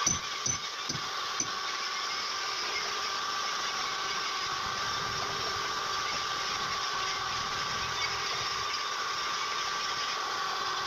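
Toyota 15B four-cylinder diesel engine running steadily at idle. For the first second and a half a regular thump comes about twice a second, then the running evens out.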